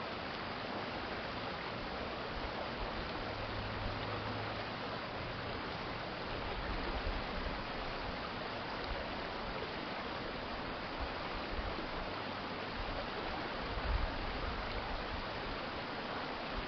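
Urban stream flowing, a steady rush of water, with a low rumble now and then, about 3 s in and again near the end.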